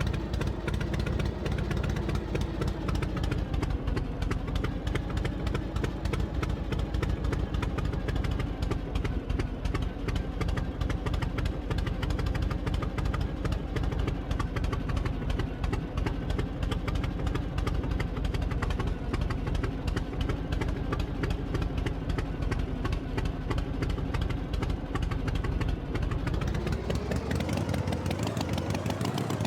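Tractor engine running steadily with a fast, even pulse. Near the end its pitch rises as it speeds up.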